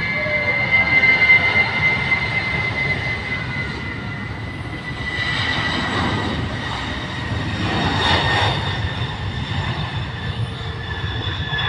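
Jet aircraft engine running, a steady rumble under a high whine that slowly falls in pitch, with two brief swells in loudness partway through.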